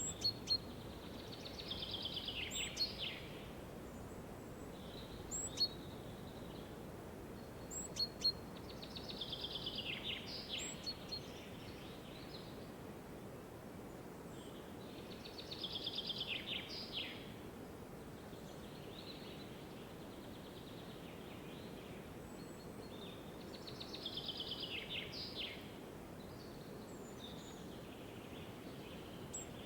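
Forest bird ambience: a songbird repeats a short song phrase about every seven seconds, each a quick run of notes falling in pitch. A few sharp single chirps come between, over a steady low outdoor hush.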